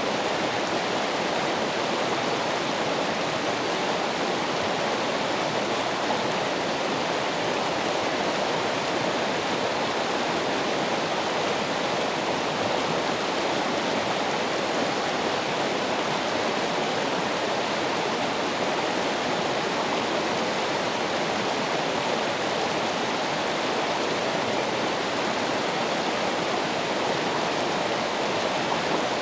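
Running water, flowing steadily with an even rushing sound that does not change.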